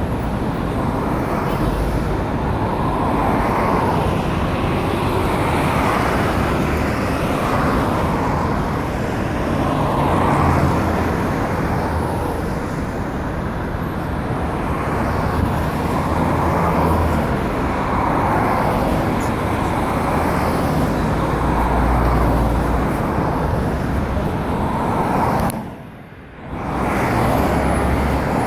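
Road traffic at a junction, with cars and buses passing: steady tyre and engine noise that swells and fades as vehicles go by, and a low engine hum that strengthens now and then. About a second near the end the sound drops away sharply and then returns.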